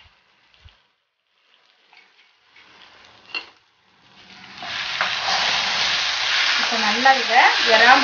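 A few faint taps, then about halfway through prawns and masala start sizzling loudly in a frying pan as a spatula stirs them. Near the end the spatula scrapes across the pan with a squeak that rises and falls with each stroke.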